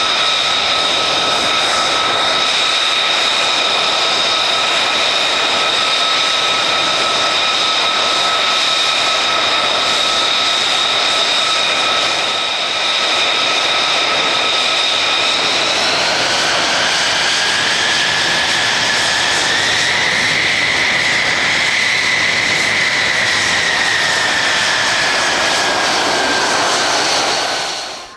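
F-35A fighter's F135 turbofan jet engine running loud and steady, with a high whine over the jet noise; about 16 seconds in the whine shifts and glides upward, then eases down again, and the sound cuts off abruptly at the end.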